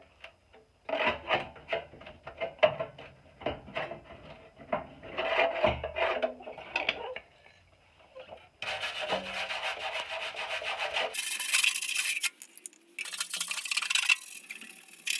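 A hand wire brush scrubbing the rusty weld seam of a steel muffler, in runs of quick scraping strokes. About nine seconds in, it changes to a denser, steadier scraping.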